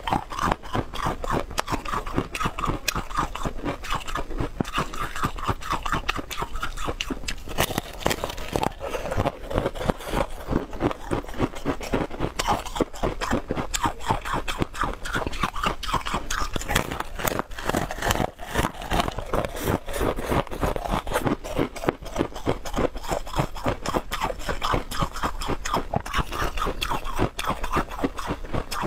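Close-up crunching and chewing of a hard, crisp block, with rapid crunches following one another throughout.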